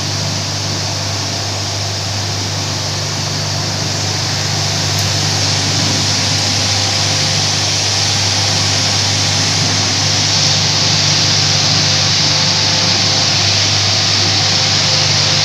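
Carpet-washing machine running steadily: a low motor hum under a loud hiss, slowly growing a little louder.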